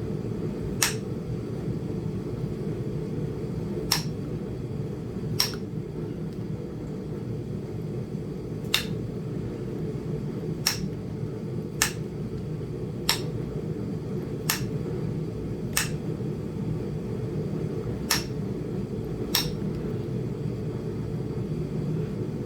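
Flintknapping by indirect percussion: about eleven light, sharp taps on an indirect flaker set against the edge of a small Flint Ridge chert biface, spaced irregularly a second or more apart as the knapper works to pop off a knob on the thick piece. A steady low hum runs underneath.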